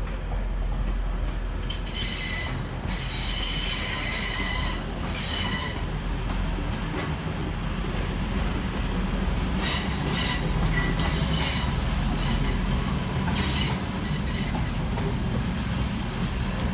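Passenger train running past on the rails with a steady rumble, and high-pitched wheel squeal coming and going several times from about two seconds in.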